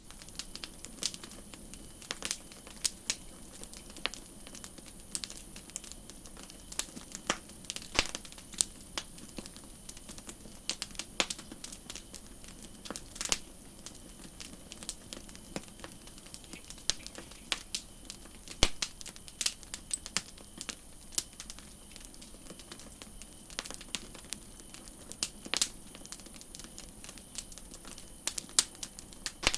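Wood campfire crackling: irregular sharp pops and snaps over a soft steady hiss, with an occasional louder pop.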